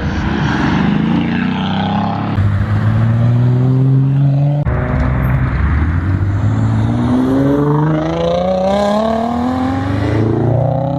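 Car engines accelerating away, loud exhaust note climbing in pitch in long rising runs, with sharp drops about two and four and a half seconds in before climbing again.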